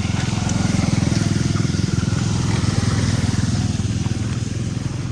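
A small engine running with a fast, even putter, growing louder into the middle and easing off near the end.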